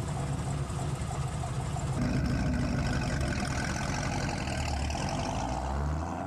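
A car engine idling with a steady low rumble, a little louder from about two seconds in and easing off near the end.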